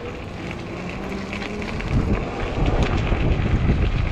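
Wind buffeting the microphone of a moving e-bike, a low rumble that gets much louder about halfway through.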